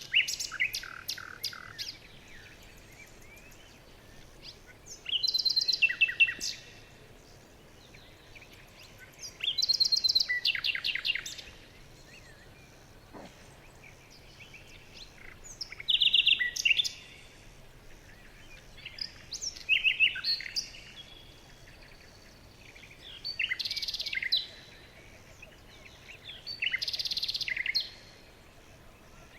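A songbird singing in short phrases of rapid, high repeated notes and trills, a new phrase every three to four seconds, with a faint steady background hiss between them.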